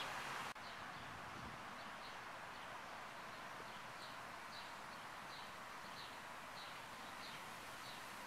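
Faint outdoor ambience with a steady hiss, over which a small bird chirps repeatedly, about two short high chirps a second.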